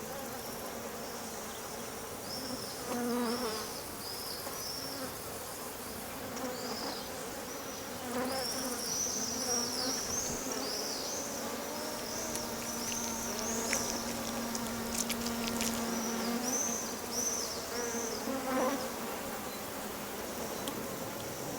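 Flying insects buzzing, the wing hum coming and going as they fly close, then held steady for a few seconds midway. High, short, repeated chirps sound throughout.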